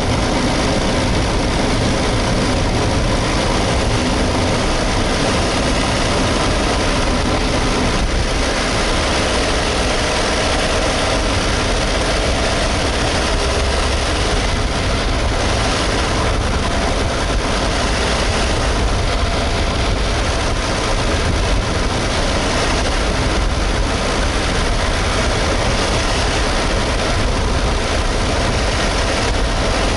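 Suzuki Hustler's 660 cc three-cylinder engine running steadily, heard close up with a dense, even mechanical noise and no clear change in engine speed.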